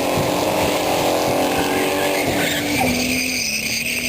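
Police car skidding: the engine revs high and holds, then drops in steps from about two seconds in as a high, steady tyre squeal comes in.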